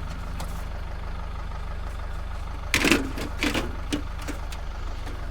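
Vehicle engine idling steadily, with a few knocks about halfway through, like a computer case being handled.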